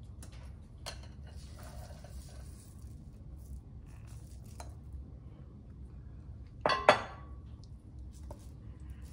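A glass bowl and a metal mesh sieve clinking lightly while almond flour and powdered sugar are tipped in and sifted: a few soft taps and a faint hiss, with one louder clink about seven seconds in.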